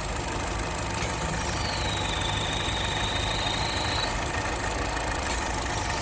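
Chevrolet Cruze engine idling, with a thin high whistle that comes in about one and a half seconds in and lasts about two and a half seconds. The whistle is air being sucked in through the valve cover, whose PCV valve membrane the mechanic takes to be probably torn.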